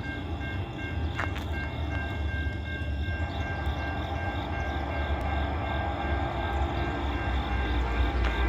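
Low, steady rumble of an approaching freight train led by an EMD SD70ACe diesel locomotive, building slowly. A rhythmic high ringing runs over it.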